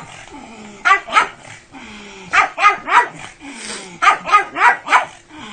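A pug barking in short, sharp barks, in quick clusters: two about a second in, three near the middle, and four about four seconds in.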